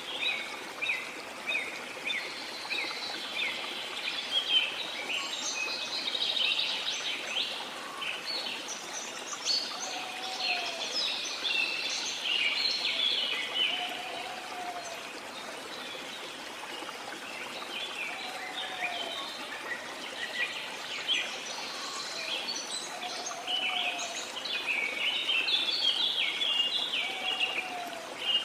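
Waterfall rushing as a steady hiss of falling water, with many birds chirping in quick high notes over it. A lower short call, rising and falling in pitch, repeats about every four seconds, five times.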